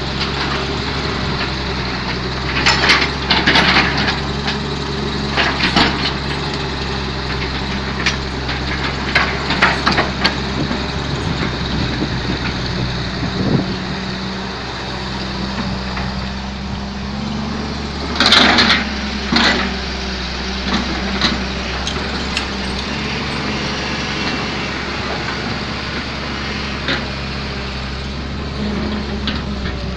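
Hyundai Robex 210LC crawler excavator's diesel engine running steadily, with short clattering knocks from the machine every few seconds, the loudest about 18 seconds in.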